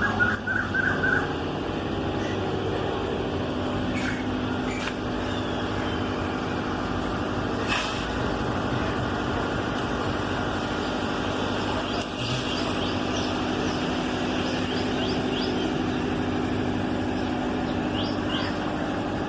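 Diesel locomotive engine idling steadily, with a few sharp metallic knocks about four, five and eight seconds in, and faint high chirps in the second half.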